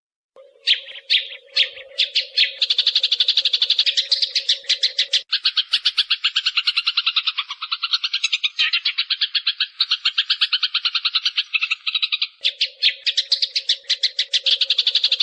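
Recorded sparrow calls used as a trapping decoy. A few separate chirps about half a second in, then a fast, steady chattering run of chirps, around ten a second, with a low steady hum under parts of it.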